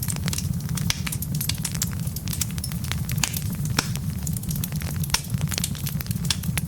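Wood fire in a fireplace: a steady low rumble of burning logs with frequent sharp, irregular crackles and pops.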